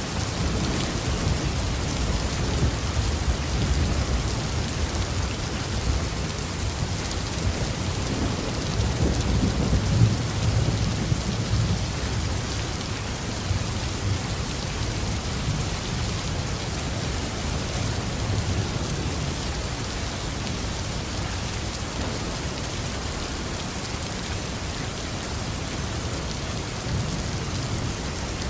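Heavy rain falling steadily with thunder rumbling low underneath. The rumble builds to its loudest about ten seconds in, then fades back under the rain.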